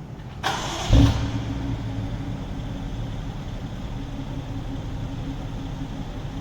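2017 BMW X5 xDrive50i's twin-turbo 4.4-litre V8 starting: a brief crank about half a second in, a loud rev flare as it catches about a second in, then a steady idle.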